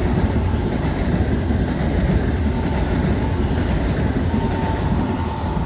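Train moving through the station close by: a steady, loud rumble of wheels on the rails, with a faint high whine about four seconds in.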